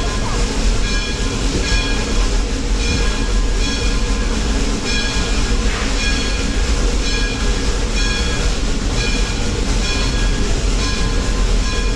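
Passenger train on a steam train ride, heard from aboard while running: a steady heavy rumble and rattle. Over it, short metallic ringing sounds repeat about one and a half times a second.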